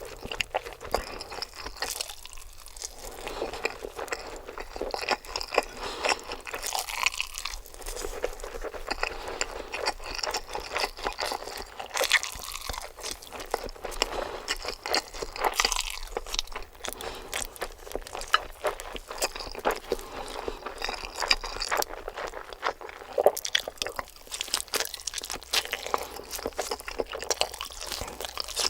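A person eating: crunchy bites and chewing, a dense run of irregular crackles and clicks.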